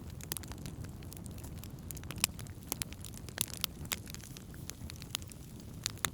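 Wood campfire burning: irregular sharp crackles and pops over a steady low rumble, with one louder pop a little over two seconds in.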